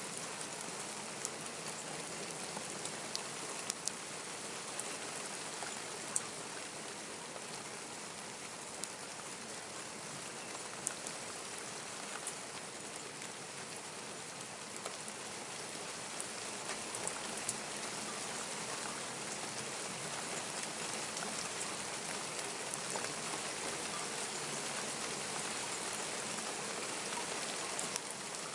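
Steady rain falling, with scattered sharp drips and taps of drops hitting close by.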